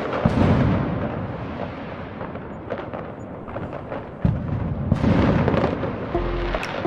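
Fireworks shells bursting: a loud boom right at the start and another about four seconds in, each followed by a long rolling rumble with crackling. Music comes in near the end.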